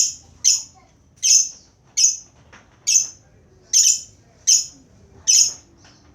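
Lovebird giving a series of short, harsh, shrill calls, about eight in a row at a steady pace of roughly one every three-quarters of a second.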